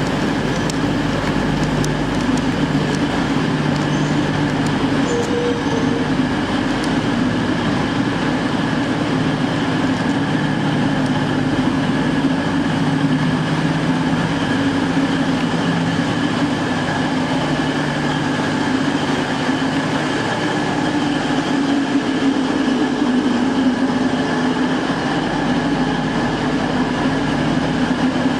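East Midlands Trains Class 222 Meridian diesel train running steadily, with a continuous even noise and a steady hum.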